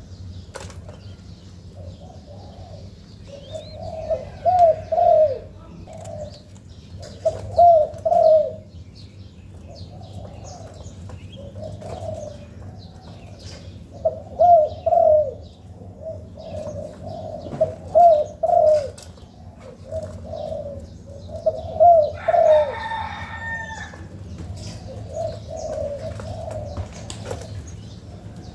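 Young spotted doves cooing, in short phrases repeated every few seconds. Small birds chirp faintly around them.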